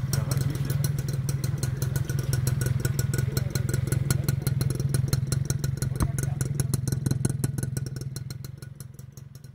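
Small motorcycle engine idling steadily, heard close to its exhaust, fading out near the end.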